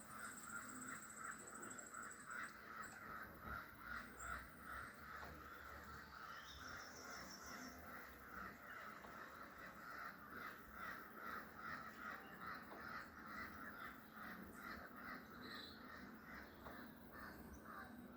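Birds calling: a steady run of harsh, repeated calls, several a second, with a few short high trills over them near the start and the middle.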